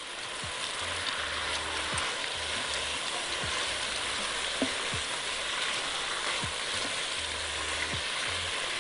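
Chicken pieces and dry, uncooked penne sizzling in a hot pan as they are stirred together with a silicone spatula: a steady frying hiss with a few faint clicks.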